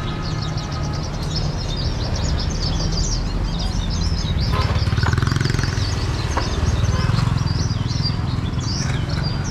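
Many small birds chirping rapidly and without pause over the steady low rumble of street traffic.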